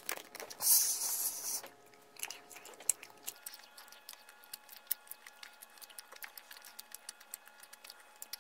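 Chewing a soft ginger jelly: wet mouth smacks and small clicks, quick and irregular. A short burst of noise about a second in.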